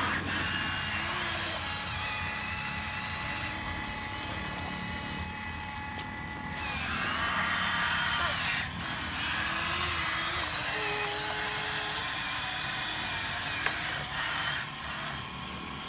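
Small electric motors of a Huina 1573 radio-controlled toy dump truck, whining in runs of a few seconds each, the pitch rising as they speed up and falling as they slow.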